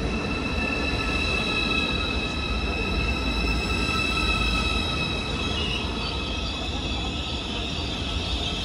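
ICE 4 high-speed electric train arriving, a low rumble under several steady high-pitched squealing tones.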